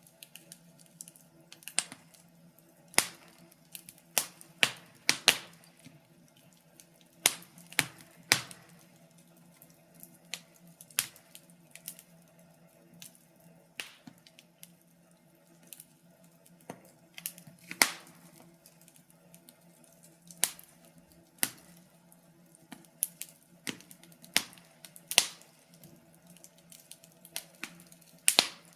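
Wood fire crackling: irregular sharp pops and snaps, sometimes in quick little clusters, over a faint steady low hum.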